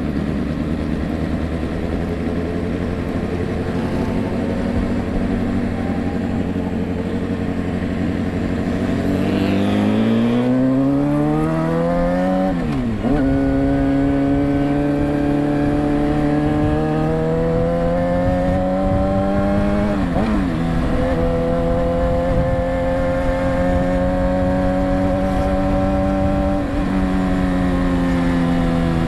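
2008 Suzuki GSX-R750 inline-four, heard from the rider's seat, running steadily at low revs, then accelerating with a rising pitch. The pitch drops briefly at two upshifts before the engine settles into a steady cruise.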